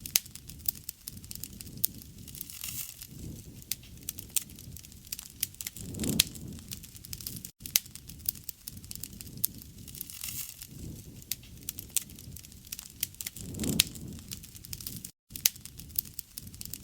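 Wood fire crackling, with frequent sharp pops and snaps over a low rush of flames that swells every few seconds. The sound cuts out for an instant twice.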